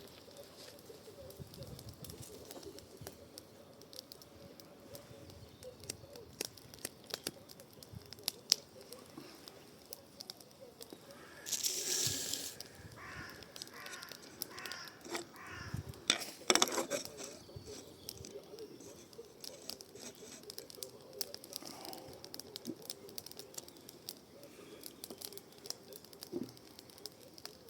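Wood fire of garden shrub cuttings burning in a fire bowl, crackling with many small irregular pops and a louder snap about two-thirds of the way through. Birds call briefly near the middle.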